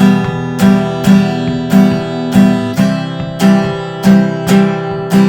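Acoustic guitar strummed in a dancehall reggae rhythm, a repeating long-long-short pattern of ringing chords.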